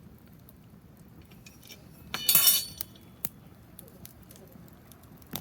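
A sharp ringing clink of a hard object, glass or metal, lasting about half a second about two seconds in, followed by two single sharp ticks, over the faint crackle of a wood fire.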